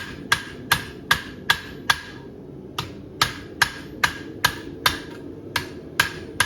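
Farrier's hammer striking a steel horseshoe on an anvil, even blows about two and a half a second, each with a short metallic ring, pausing briefly about two seconds in: closing up the nail crease on a handmade shoe.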